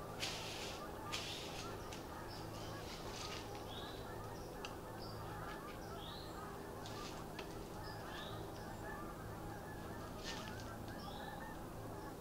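Birds calling: short rising calls repeated every second or two over faint, steady outdoor background noise, with a few brief rustles.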